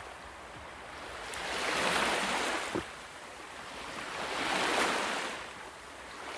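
Waves washing in, two slow swells of surf about three seconds apart.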